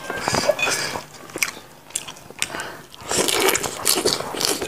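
Close-up eating sounds: biting and chewing a mouthful of lettuce and spicy catfish, with wet clicks and smacks that grow busier over the last second and a half.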